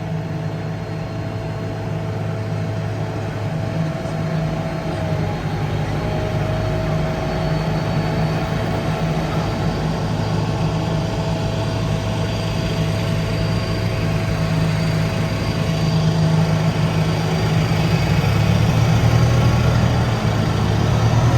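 A Type 16 Maneuver Combat Vehicle's inline four-cylinder turbodiesel engine idling just after starting: a steady low drone with a thin whine over it. It grows gradually louder and rises slightly near the end.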